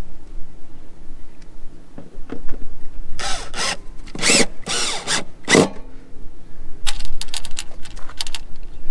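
Power drill running in three short runs around the middle, then a quick series of sharp clicks near the end.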